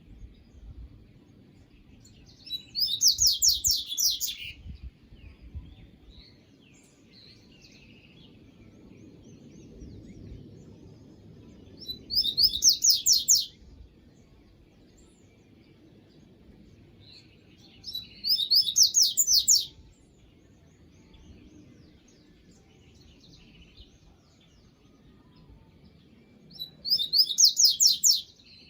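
A songbird singing four short songs several seconds apart, each a rapid run of high repeated notes lasting about a second and a half, over faint low background noise.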